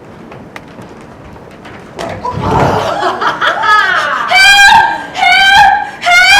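A person's voice letting out a series of high-pitched, shrill cries, about four in a row, each under a second and falling in pitch, starting a few seconds in after a quiet stretch.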